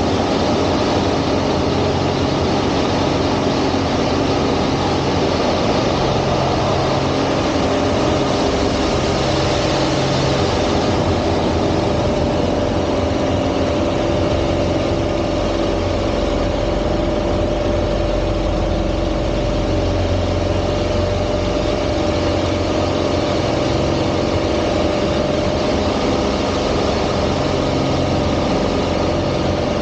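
Piston engine and propeller of an aerobatic plane running steadily, with a constant whine and low engine notes that change every few seconds.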